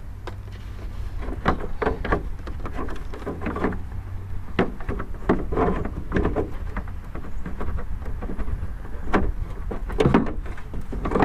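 Irregular plastic knocks and clicks from a 2007 Chevy Tahoe tail light housing being pushed and worked onto its locator tabs and spring clips, over a steady low rumble.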